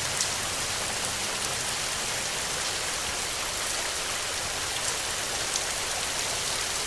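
Steady rain, an even hiss with a few sharper drop ticks scattered through it.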